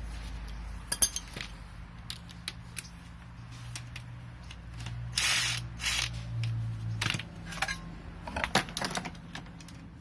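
Ratchet wrench clicking and metal hand tools clinking as bolts are loosened, in scattered clicks with two denser runs of rapid clicking, over a steady low hum.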